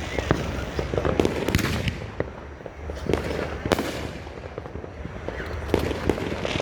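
Aerial shells of a 500-gram fireworks cake firing: several sharp bangs a second or two apart, over a continuous crackle.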